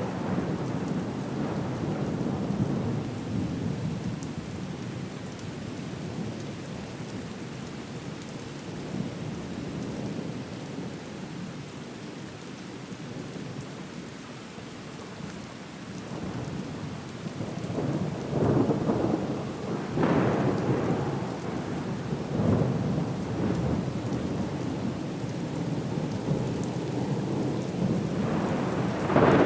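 Stormy sea soundscape: a steady rushing of rain and surf with rolling rumbles. It swells into loud surges about two-thirds of the way through and again at the end.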